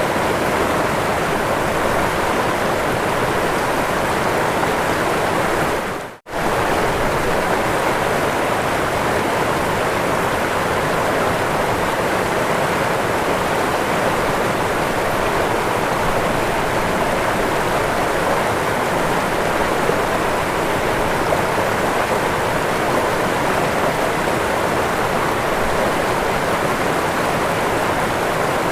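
Waterfall, water rushing and splashing in a steady, even roar of noise. About six seconds in it drops out for a split second and comes straight back.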